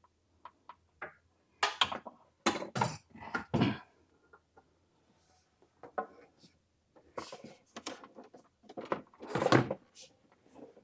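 Knocks, clatters and rustling from a film light and its stand being handled and repositioned, in two bursts of activity with the loudest knock near the end.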